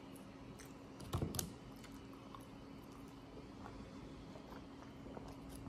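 Faint clicks and mouth sounds of someone chewing a French fry with closed lips, with one brief louder crunchy burst about a second in, over a low steady hum.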